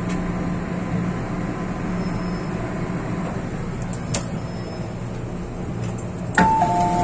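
MTR M-Train running, with a steady rumble and hum inside the car. Near the end, a two-note falling chime sounds over the train's public-address speakers.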